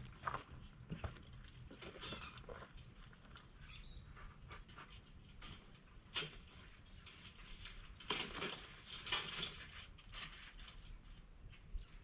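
Faint scraping, tapping and clicking from hands and tools working loose parts on a scrapped air-conditioning unit, with a louder scratchy stretch about eight seconds in.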